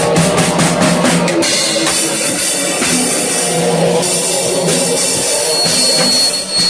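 Rock band playing: a drum kit with bass drum and cymbals drives the music, with a quick run of drum hits in the first second and a half.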